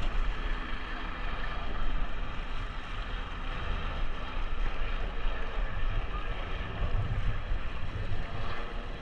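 Wind buffeting the microphone over a steady rush of water along the hulls of a Hobie Cat catamaran under sail.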